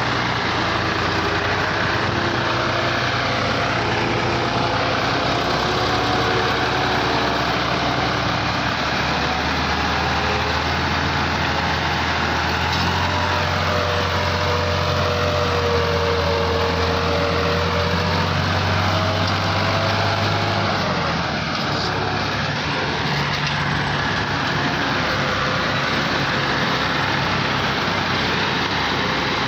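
Tractor diesel engines running steadily. A deeper engine hum grows louder from about nine seconds in and drops away sharply about twenty-one seconds in.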